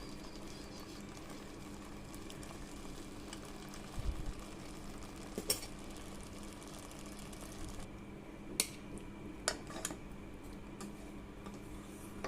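A spoon stirring gravy in a cooking pot, with a soft knock about four seconds in and a few sharp clinks of metal on the pan in the second half, over a faint steady hum.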